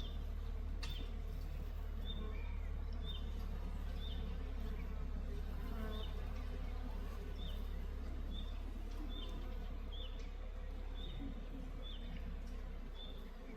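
Insects buzzing outdoors, with a bird repeating a short high call about once a second over a steady low rumble.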